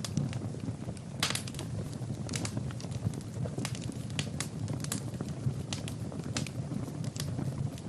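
Wood fire burning in a fireplace: irregular sharp crackles and pops of the burning wood over a steady low rumble of the flames.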